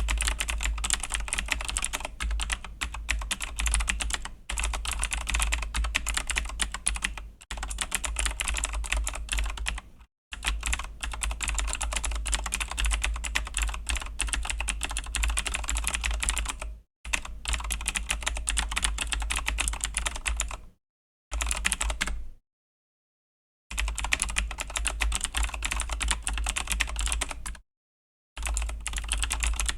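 Fast, continuous typing on a Razer BlackWidow V3 mechanical keyboard with clicky Razer Green switches, a dense stream of key clicks. It stops dead several times for a moment, most plainly for about a second and a half past the middle, then resumes.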